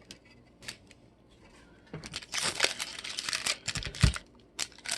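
Plastic-wrapped trading card packs crinkling as they are handled. The crinkling runs for about a second and a half from two seconds in, followed by a couple of dull knocks and small clicks.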